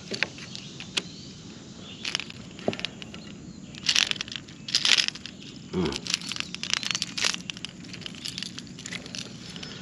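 Irregular short rustles and knocks from handling a freshly caught small bass and its wake-bait lure in a kayak, a few seconds apart.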